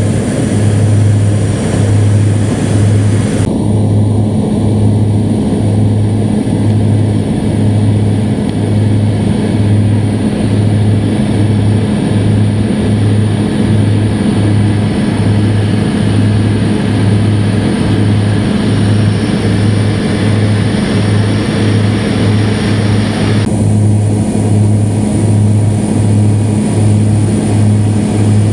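Propeller airplane engine and propeller drone heard from inside the cabin in flight: a loud, steady low hum with a slow, regular pulsing about once a second.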